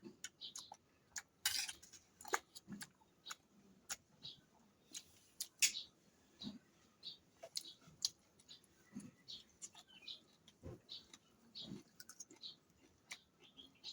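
Close-up eating sounds: chewing and mouth smacks scattered with many small clicks, a few of them louder.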